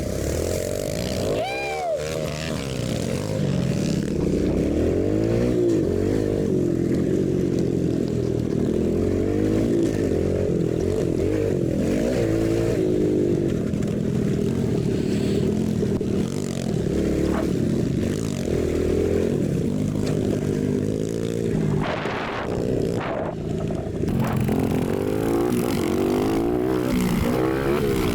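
Dirt bike engines revving up and down as they are ridden hard, the pitch rising and falling continuously, with the sound dull and muffled.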